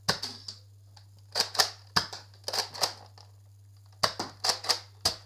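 Nerf blaster being primed and fired: a run of sharp plastic clacks, about ten, in small groups spread over several seconds.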